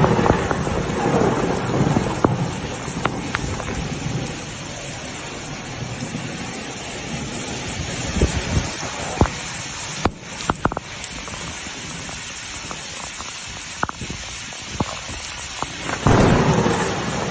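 Heavy rain and storm wind, a continuous rushing noise with scattered sharp knocks and pops, surging louder with deep rumbling at the start and again about 16 seconds in.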